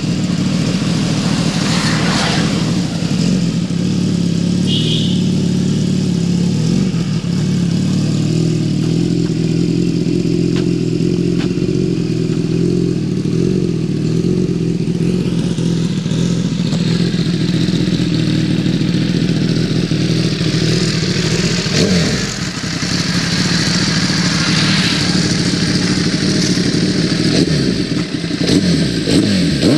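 Motorcycle engine running steadily while riding, its pitch holding nearly level, with brief drops in engine sound about two-thirds of the way through and again near the end.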